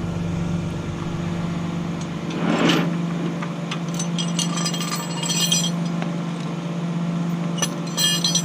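Tow chains and hooks clinking and jangling as they are unhooked from under a car, in two clusters, over the steady hum of an idling engine. A brief rushing noise swells and fades about two and a half seconds in.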